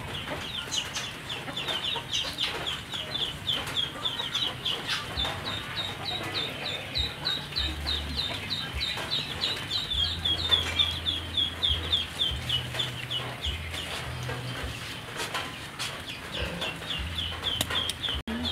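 Birds chirping rapidly and steadily, several short, falling, high chirps a second. A low hum comes and goes in the second half.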